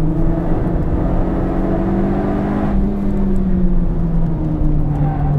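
Toyota Yaris GRMN's supercharged 1.8-litre four-cylinder engine pulling under load, heard from inside the cabin. The engine note climbs steadily for the first two seconds or so, then drops back about three seconds in and holds.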